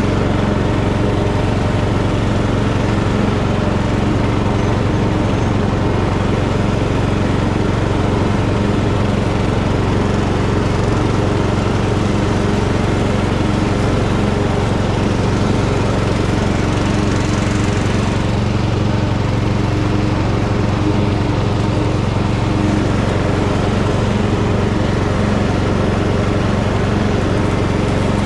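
Tractor engine running steadily at a constant speed while mowing tall grass, with a mower's whirring noise over the engine's hum.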